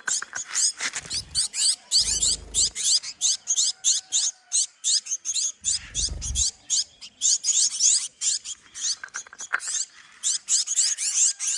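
A flock of young birds cheeping incessantly, many short high chirps overlapping, as they crowd close to be fed. Two brief low thumps come about two and six seconds in.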